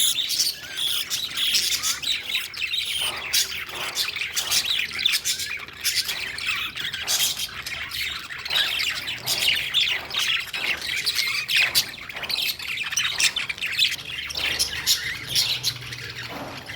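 Lovebirds chattering and squawking: many rapid, shrill, overlapping calls with no pause.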